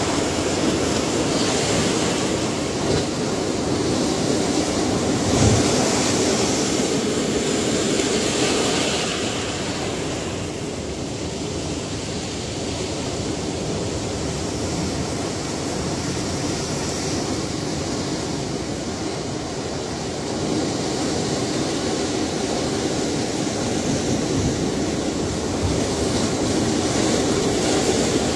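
Ocean surf: a continuous rush of breaking waves that swells about five to nine seconds in, eases off, and builds again in the last third.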